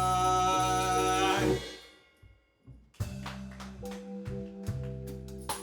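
Live band playing: a held, sustained chord dies away about a second and a half in, leaving a moment of near silence. About three seconds in, the band comes back in with drum hits, a bass line and short struck notes.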